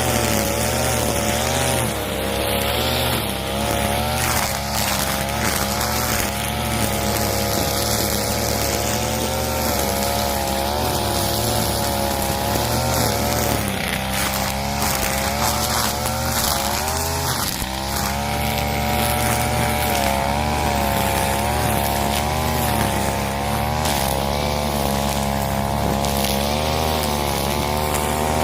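Husqvarna 541 two-stroke brush cutter running at high speed while clearing overgrowth, its engine note wavering up and down as the load changes. It dips briefly a little before the middle and again just after.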